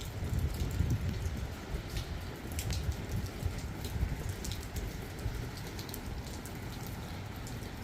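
Steady rain noise with scattered sharp drop ticks over a low rumble.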